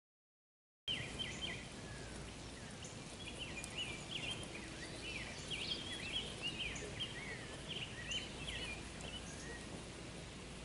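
Silent for about the first second, then several small birds chirping and singing in quick short calls over a steady low outdoor background noise.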